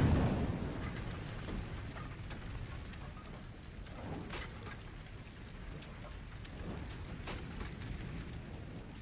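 A low, dense rumble dying away from a loud blast just before, with scattered faint crackles and ticks over it.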